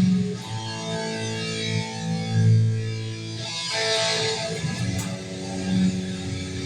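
Guitar playing held chords in an instrumental passage between sung lines, with a new strum about halfway through.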